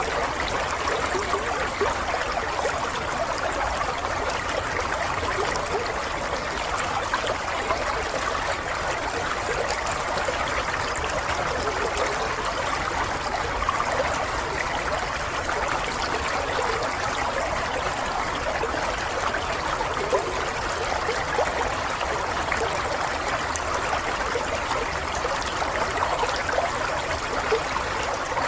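Flowing water, a steady babble of a small stream with tiny splashes throughout.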